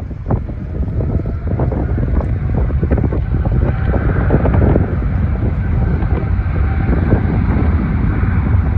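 Wind buffeting the phone's microphone, with a jet airliner's engines growing louder from about three seconds in.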